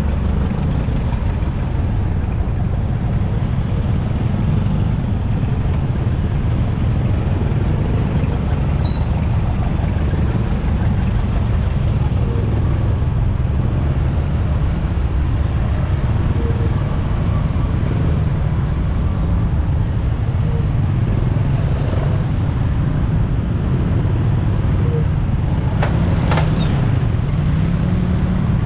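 Motorcycle riding in traffic: a steady low engine and road rumble that rises and falls slightly in pitch as the engine speed changes, with surrounding traffic noise. A brief sharp sound stands out near the end.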